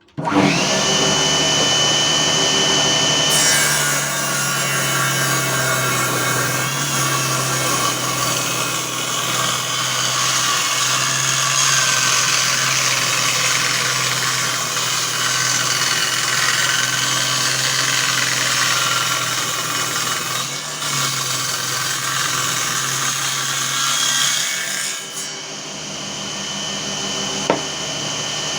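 7-inch 24-tooth circular saw blade driven by a 997 24V DC motor. It spins up with a steady high whine, is fed into a cut about three seconds in and saws continuously for about twenty seconds, then spins free again with the whine near the end.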